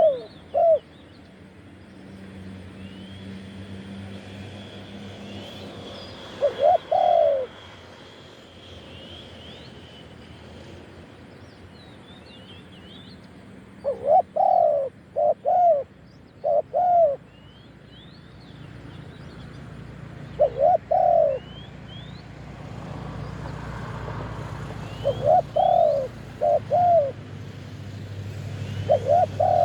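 Spotted dove cooing: short phrases of two to four hoarse hooting notes, repeated every few seconds. Small birds chirp faintly and high in the background.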